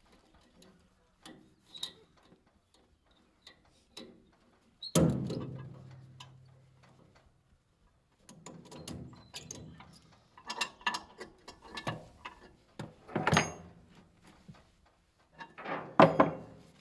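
Metal clanks, clicks and rattles of trailer gear being handled, with one loud clank about five seconds in that rings on for a second or two, and more bunched knocks near the end.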